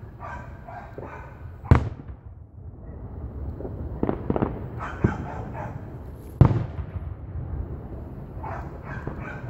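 Aerial fireworks shells bursting: two loud booms about five seconds apart, with a few smaller pops between them over a steady low rumble.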